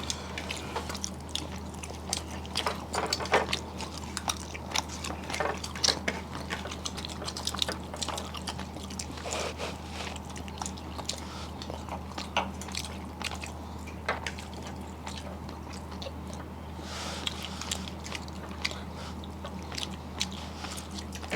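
A person chewing and eating fish and rice: irregular small wet smacks and clicks of the mouth, over a steady low hum.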